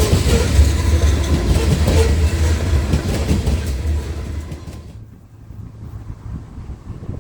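A train passing close by: loud rumbling of the railcars' wheels on the track, with clacking over the rail joints. It fades, then drops away sharply about five seconds in as the train goes by.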